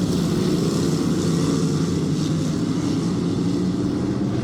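A field of dirt-track race cars running at speed around the oval, their engines blending into a steady, even drone.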